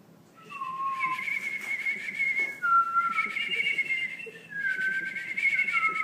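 A small wild bird trapped indoors giving a run of long, warbling whistled notes in about four phrases, a higher and a lower note often sounding together.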